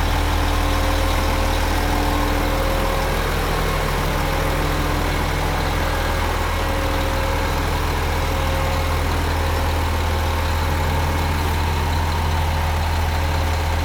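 Heavy diesel engine of a concrete mixer truck running at a steady idle: a deep, constant hum with a few steady higher tones over it.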